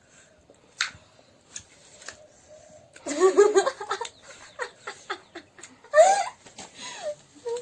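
A person giggling, in two spells: one about three seconds in and a shorter one near six seconds, with a few small clicks between them.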